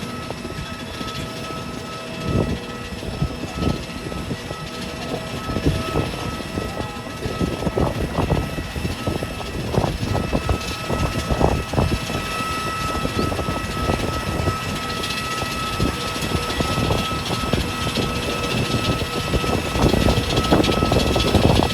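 Jet airliner running on the ramp: a steady high whine with several held tones over a loud rushing noise. Irregular low rumbles and knocks run under it, and it grows gradually louder toward the end.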